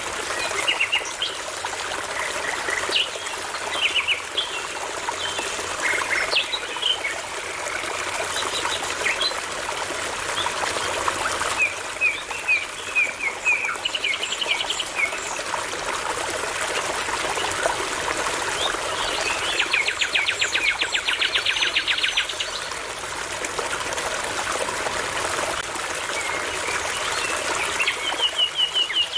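A brook trickling and babbling steadily while songbirds sing over it in short phrases of chirps and whistles, with a fast, rattling trill about two-thirds of the way through.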